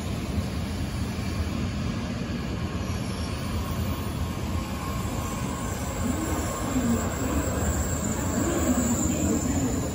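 N700A Shinkansen train running slowly along the track beside the platform, with a steady rumble of wheels on rail and running gear.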